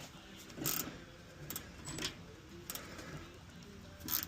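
Spanner working a bolt on a tractor bracket: a few scattered metallic clicks and scrapes, about five over four seconds.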